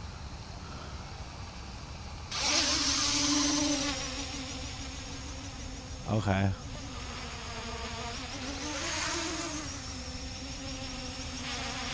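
CG035 quadcopter's propellers buzzing. About two seconds in, the motors throttle up sharply to a loud, steady whine as the drone takes off in manual mode, and the pitch swells and settles again near the end.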